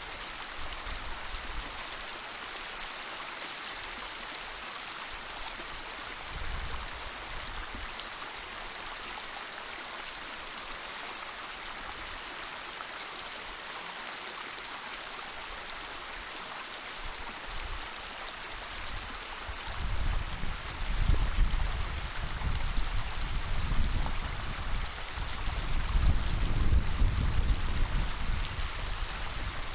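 Waterfall: steady rushing, splashing water, with a deeper, louder low rush joining about twenty seconds in.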